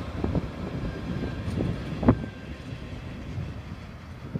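Diesel work train of an SBB Am 843 locomotive, flat wagons and a shunting tractor rolling away. The wheels give scattered knocks over the rail joints, the sharpest about two seconds in, and the rumble fades as the train recedes.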